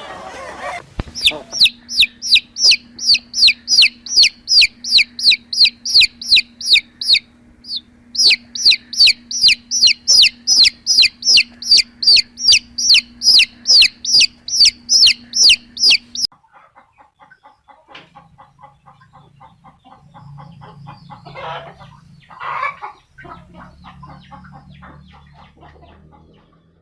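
A bird giving a fast, very regular series of high, downward-sliding chirps, about three a second, with one short break, stopping abruptly a little past halfway. After that only faint ticking and two short, softer calls remain.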